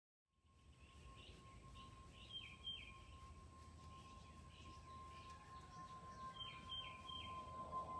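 Quiet outdoor ambience in which a small bird calls with short, falling high chirps: two about two and a half seconds in and three more near seven seconds in. A faint steady high tone runs underneath.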